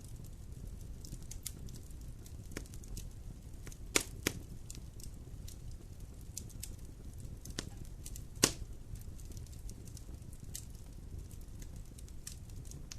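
Fire burning in a fireplace, crackling with scattered small clicks over a low steady rumble, and sharp pops: two close together about four seconds in and a louder one about eight seconds in.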